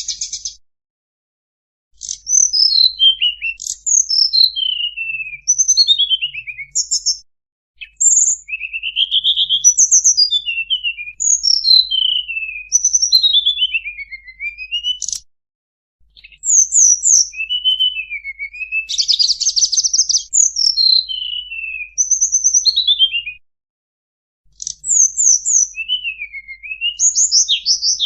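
Recorded song of the tledekan bambu played as a bird-catching lure call: phrases of high, quick whistles sliding downward, mixed with short trills. They come in runs of several seconds broken by brief gaps of dead silence.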